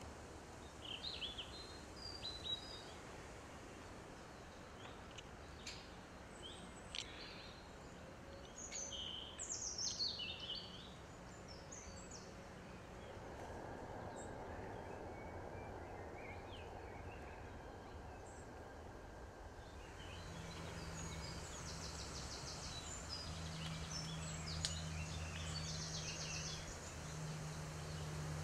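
Woodland birds singing in short, scattered phrases over a steady outdoor hiss. About two-thirds of the way through, a low steady hum comes in underneath.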